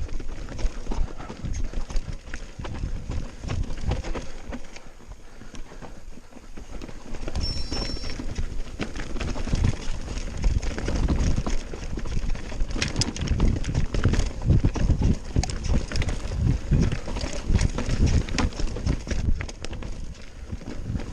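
Mountain bike descending a rough, rocky trail: tyres crunching over stones and the bike rattling in quick, irregular knocks, over a steady low rumble.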